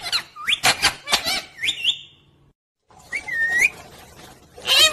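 Pet parrot chirping and whistling: a run of short, sharply rising whistled notes, then a gap of under half a second, a longer whistle, and a louder call near the end.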